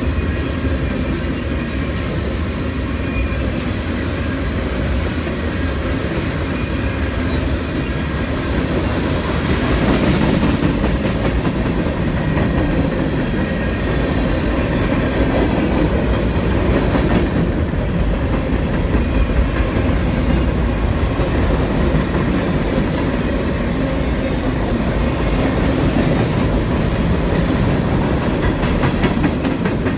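CSX freight train rolling past at close range: a steady, loud rumble of the train's wheels on the rails.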